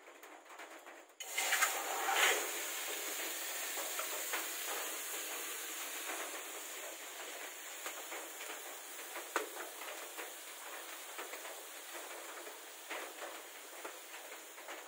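Chicken pieces tipped into a hot wok over a wood fire: a sudden loud sizzle a little over a second in, settling into steady frying with scattered pops and spatters that slowly ease.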